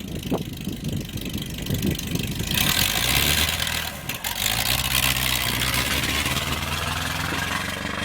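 Vintage drag-racing car's engine idling with a steady low rumble. A loud hiss sets in about two and a half seconds in and carries on over it.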